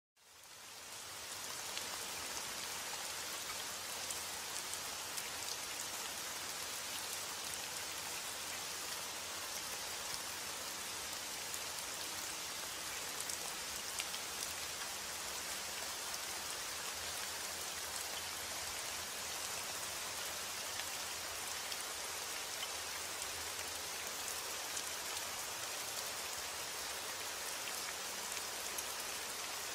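Steady heavy rain, an even hiss flecked with fine, scattered drop ticks. It fades in over the first second, then holds level.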